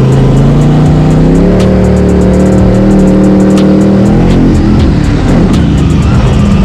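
Monster truck engine running very loud, its pitch climbing about a second and a half in, held at high revs, then dropping away about four seconds in. Music plays underneath.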